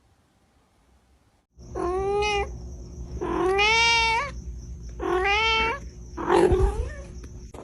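A cat meowing four times in long, drawn-out calls, starting about a second and a half in; the last call is rougher than the others.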